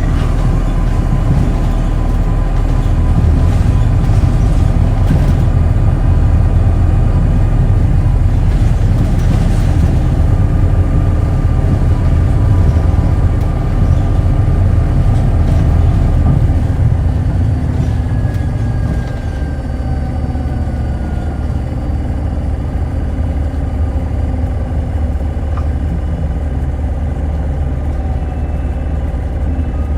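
Running sound inside a Hino Blue Ribbon Hybrid city bus (2SG-HL2ANBP) under way: a steady low drivetrain rumble that eases about two-thirds of the way through as the bus slows, with a faint whine falling in pitch.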